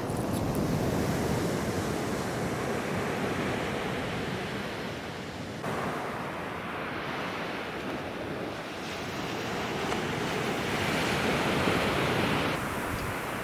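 Ocean surf washing onto a beach, with wind buffeting the microphone. The wash swells and ebbs, loudest at the start and again near the end.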